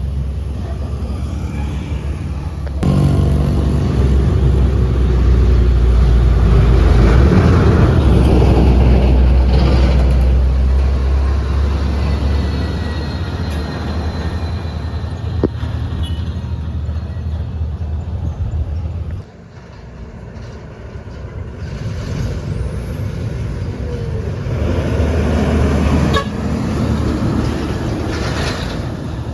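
Diesel truck engines working hard uphill: a loud, steady low engine note that swells a few seconds in, drops off sharply about two-thirds of the way through, then builds again as another truck approaches.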